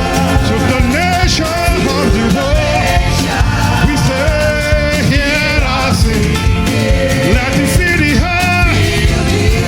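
Live church praise band playing an upbeat gospel song with a steady beat, with singing voices over it.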